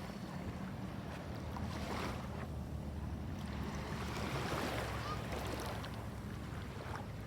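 Boat engine running at a steady hum, with wind and water noise over it.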